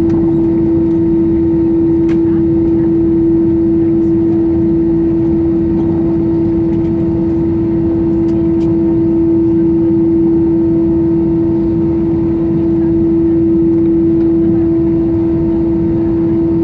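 Airbus A320's jet engines running at idle, heard from inside the cabin: a steady drone with a constant hum.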